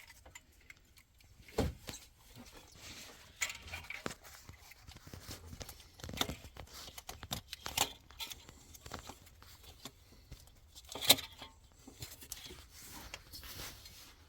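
Scattered clunks, knocks and scraping as a replacement starter motor is worked by hand into its mounting position. The loudest is a single sharp knock about eleven seconds in.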